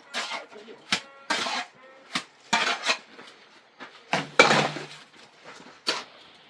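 Hand tools striking during building work: about ten sharp metallic knocks and clinks at an uneven pace, some ringing briefly, with a few longer scraping rasps between them.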